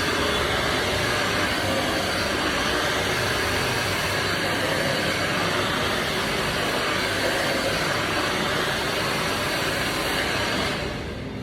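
Handheld hair dryer blowing steadily, a loud even rush of air and motor; it goes quieter and duller near the end.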